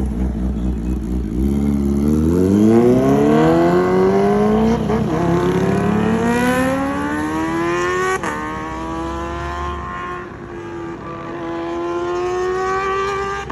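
Kawasaki ZX-25R's 250 cc inline-four running through an aftermarket Arrow exhaust. It idles for a moment, then revs rise steeply as the bike accelerates. About eight seconds in the pitch drops sharply at an upshift, and the revs climb again more slowly.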